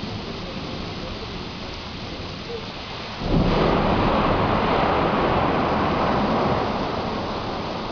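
Rain falling steadily, then about three seconds in a sudden loud thunderclap that rumbles on for about three seconds and slowly fades.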